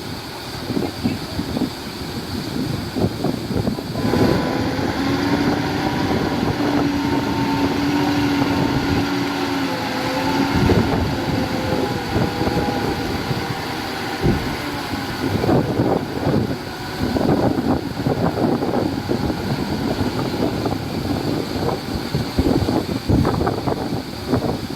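Heavy construction machinery engines running, with wind buffeting the microphone. A steady pitched whine comes in about four seconds in and holds for about six seconds.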